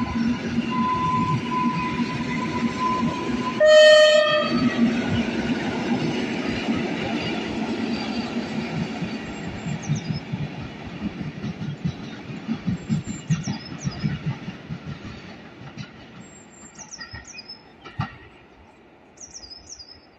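Koleje Śląskie electric multiple unit moving away from the platform: a steady whine, one short horn blast about four seconds in, then the wheel rumble fading into the distance. Birds chirp near the end.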